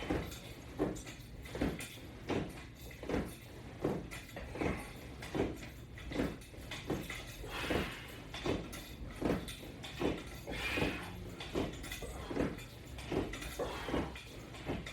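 Rhythmic exercise repetitions by a person working out with a resistance-band rig: a short beat about every three-quarters of a second, keeping an even pace.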